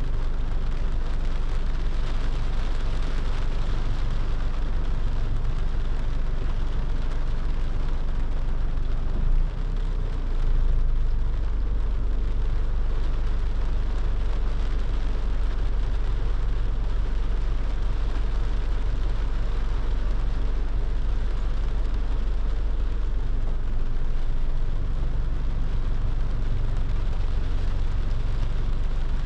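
A car driving in the rain: a steady hiss of rain with a heavy low rumble of road and engine noise, with a short dip and swell in level about nine seconds in.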